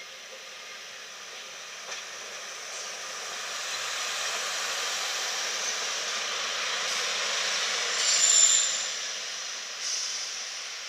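Northern Class 142 Pacer railbus running past along the platform. Its rushing wheel-and-rail noise builds to a peak about eight seconds in, with a brief high squeal, then eases off.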